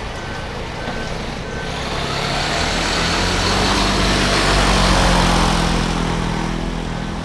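A heavy road vehicle passes close by, its engine and tyre noise swelling to a peak about five seconds in and then fading. A faint steady beeping repeats about twice a second underneath, masked while the vehicle is loudest.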